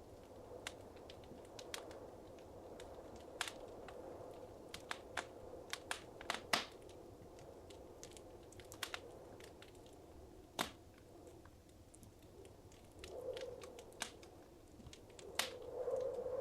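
Wood fire crackling in a fireplace: irregular sharp pops and snaps over a soft steady hiss of burning, with the hiss swelling briefly about thirteen seconds in and again near the end.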